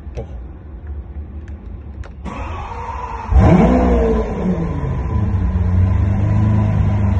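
Lamborghini Aventador LP700-4's 6.5-litre V12 being started. There are a few clicks and a brief whir of the starter. About three seconds in the engine catches with a loud flare of revs that rises and falls, then settles into a steady fast idle.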